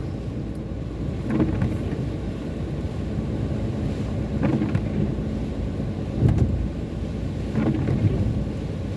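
Steady low rumble of road and engine noise inside a moving car on a wet road. A short swish comes about every three seconds, and there is a heavier thump about six seconds in.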